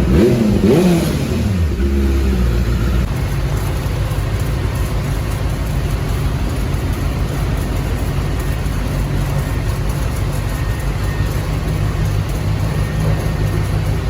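Motor vehicle engine whose pitch drops sharply over the first two seconds as it slows or comes off the revs, then runs on as a steady low drone.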